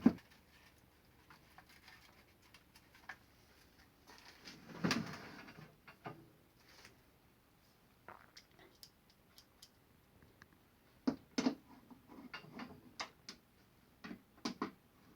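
Scattered light clicks and taps of plastic air cooler parts being handled and fitted together, with a longer handling noise about five seconds in.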